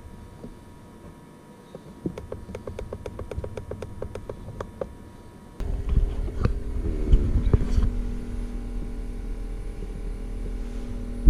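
A rapid, even run of clicks, about six a second, then a geothermal heat pump starts with a sudden steady low hum a little past halfway. It is being run in cooling mode to thaw its frozen coaxial water coil.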